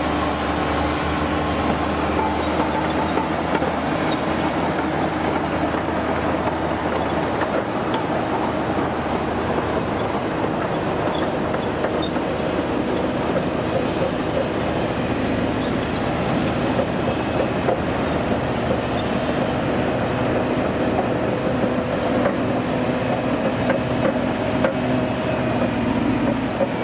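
Diesel engine of a heavy vintage truck or construction machine running steadily under load, its pitch drifting slightly up and down.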